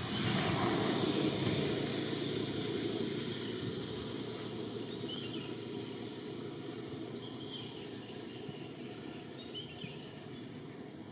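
A low rumbling noise that slowly fades away, with a few short, high, falling chirps in the second half.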